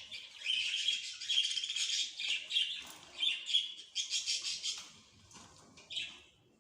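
A small songbird singing in quick runs of chirps and trills, high-pitched, in phrases with short gaps, thinning out and falling quiet near the end.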